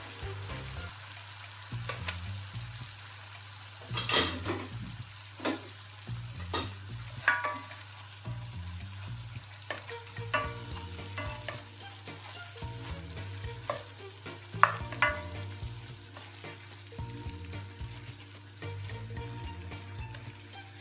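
Food sizzling in a pan as it is stirred and tossed, most likely fried chicken in the sauce, with a steady low hum underneath. Sharp knocks and scrapes of the utensil against the pan come now and then, the loudest about 4 s in and about two-thirds of the way through.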